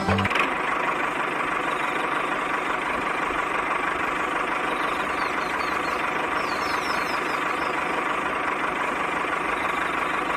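A small motor running steadily with an even whirr and a steady whine.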